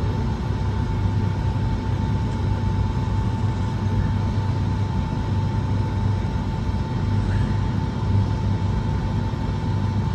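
Steady cabin hum inside a parked Boeing 757-200: the air-conditioning and ventilation running, with a low drone and a thin constant whine.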